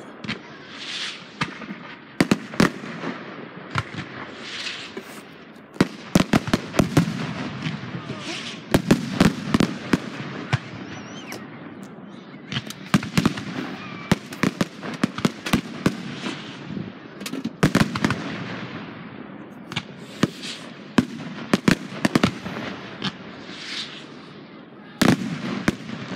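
Aerial fireworks bursting in quick succession: repeated sharp bangs with crackling in between, coming in several dense clusters.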